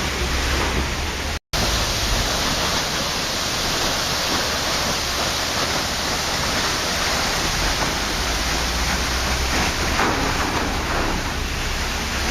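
Waterfall rushing: a steady, even roar of falling water, broken once by a split-second gap of silence about a second and a half in.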